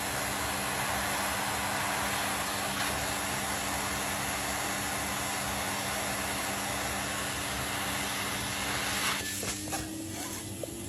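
Water running steadily from a tap, a continuous hiss with a faint hum beneath; it stops about nine seconds in.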